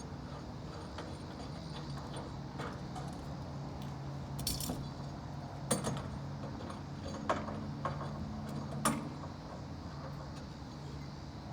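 Several sharp metallic clinks and a short rattle over a steady low mechanical hum.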